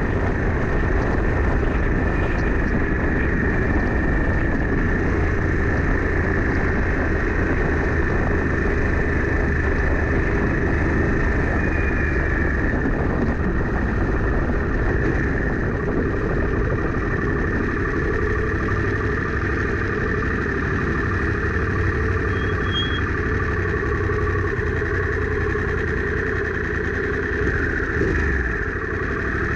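2021 Harley-Davidson Sportster S, its Revolution Max 1250T V-twin running through a Two Brothers Racing Comp S 2-into-1 stainless exhaust while the bike is ridden, holding a steady note with no sharp revving.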